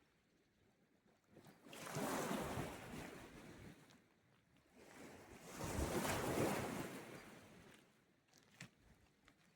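Small sea waves washing onto the shore, two of them, the first about two seconds in and the second, the loudest, about six seconds in, each swelling and fading away with quiet between.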